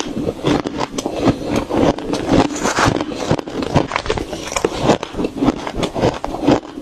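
Close-up chewing and crunching of shaved ice in the mouth: rapid, irregular crisp crunches that run on without a break.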